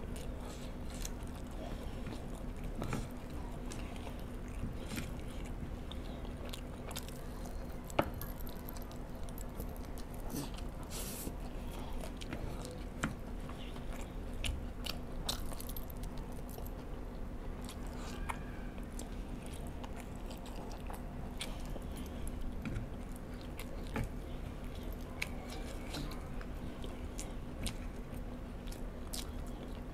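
Close-miked chewing and biting of spicy ghost pepper chicken wings, with short, sharp clicks scattered throughout and a faint steady hum beneath.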